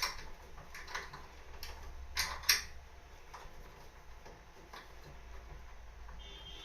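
A few sharp clicks and light knocks, the loudest a quick pair about two and a half seconds in, then quieter, over a faint low steady hum.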